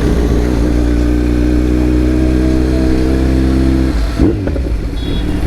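Kawasaki superbike with an Akrapovic exhaust, its engine running at a steady pitch; about four seconds in the steady note breaks off and the sound turns uneven.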